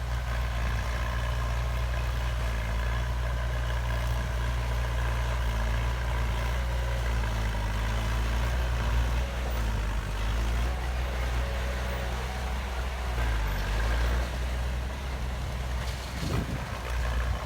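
Heavy construction machine's diesel engine running steadily with a deep, continuous low hum.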